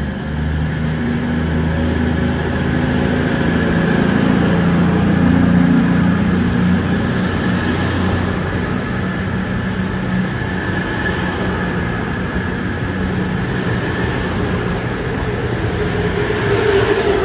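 Express passenger train passing close at speed: a steady rush of wheels on rail and air, with a low drone in the first half that fades out.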